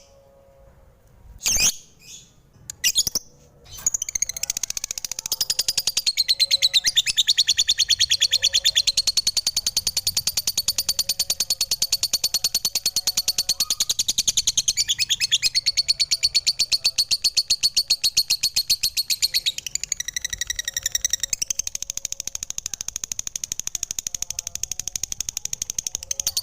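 Lovebird chattering: a few short separate chirps, then from about four seconds in a long, unbroken run of very rapid, high-pitched chirping.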